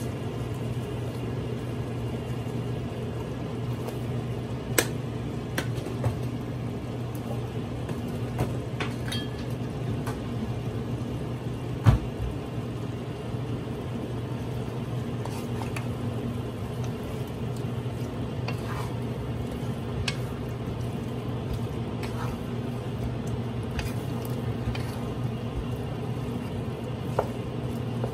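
Meat frying with a steady sizzle in a metal pot while a wooden spatula stirs it, with a few sharp knocks of the spatula against the pot, the loudest about twelve seconds in. A steady low hum runs underneath.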